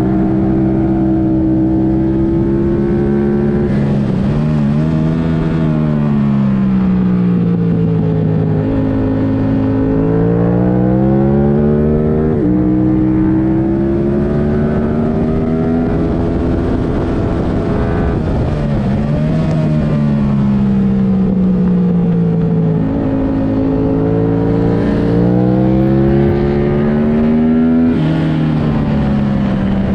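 2022 Yamaha R7's 689 cc parallel-twin engine, running through a MIVV Delta Race exhaust with the airbox removed, revving hard on track. The pitch climbs, drops sharply at upshifts about twelve seconds in and near the end, and winds down under braking twice in between.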